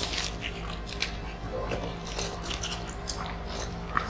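Close-up mouth sounds of several people eating rice and grilled chicken by hand: chewing with wet smacks and small clicks, one sharper click near the end.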